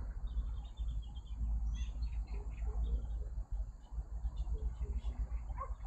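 Birds chirping in short scattered calls over a steady low rumble of outdoor background noise.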